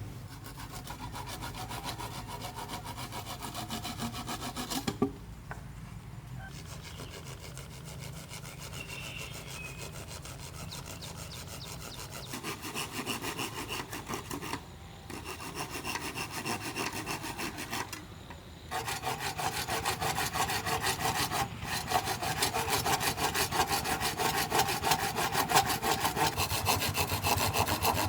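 Hand saw cutting bamboo in rapid, even back-and-forth strokes. It stops briefly three times and is louder in the last third.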